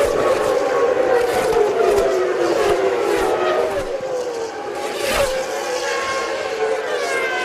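Formula One racing cars' engines running at high revs, several pitches at once sliding down and climbing again as the cars brake and accelerate past. There is a short sudden noise about five seconds in.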